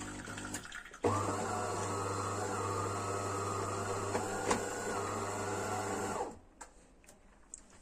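De'Longhi Dinamica Plus bean-to-cup coffee machine's pump running with a steady hum during its self-cleaning rinse, starting abruptly about a second in and cutting off about six seconds in.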